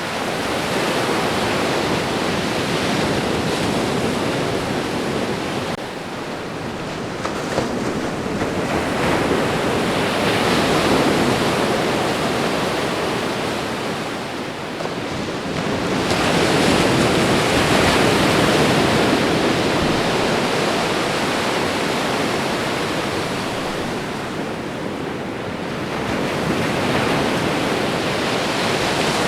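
Ocean waves breaking and washing on the shore, a steady rushing surf that swells and eases every several seconds.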